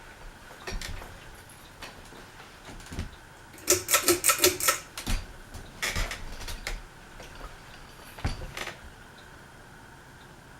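Harbor Breeze Armitage 52-inch ceiling fan running on medium speed with a faint steady hum. Scattered sharp clicks sound over it, with a loud run of about eight quick rattling clicks around four seconds in.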